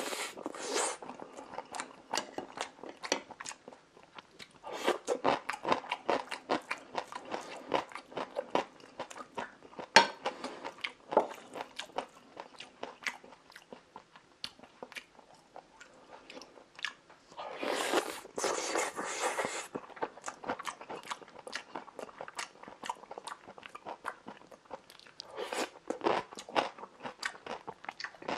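Close-miked eating of omurice and kimchi: chewing with many crisp, irregular crunches and a few longer stretches of rustly chewing.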